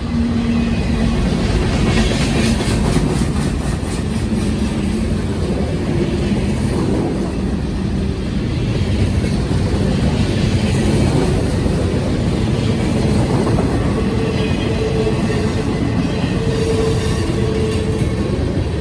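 Norfolk Southern manifest freight train rolling past: a steady heavy rumble of the freight cars on the track, with wheel clicks over the rail joints.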